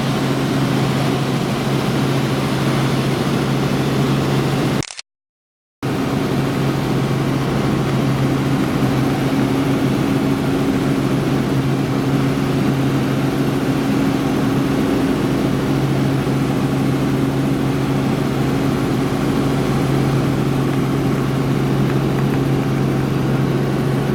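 Helicopter in flight, heard as a steady, loud engine-and-rotor drone with a constant low hum. The sound drops out for about a second some five seconds in.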